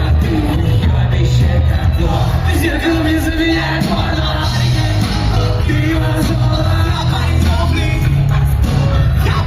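Live rock band playing loud through a concert PA, with heavy bass and drums and a singing voice over them.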